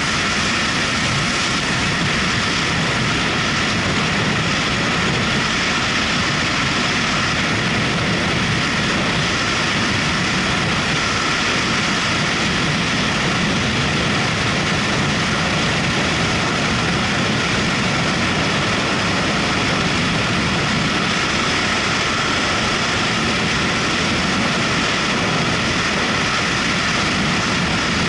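Motorcycle riding at a steady speed: engine and road noise mixed with wind rushing over the microphone, unchanging throughout.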